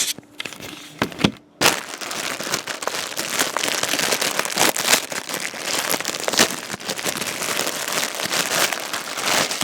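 Packaging being handled and torn open, crinkling and crackling almost continuously, after a few separate crackles in the first second or so.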